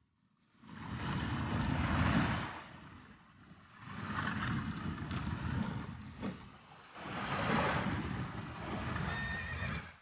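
Animated-film sound effects of horses neighing over three loud surging swells of rushing water.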